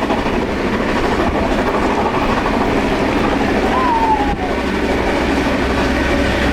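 Steam train running at speed: a steady, loud din of the train and its wheels on the rails. A brief falling tone sounds about four seconds in.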